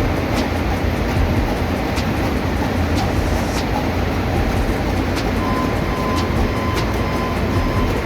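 Loud, steady engine-room machinery noise from the ship's running diesel plant, with sharp ticks every second or so. A steady high tone comes in a little past halfway.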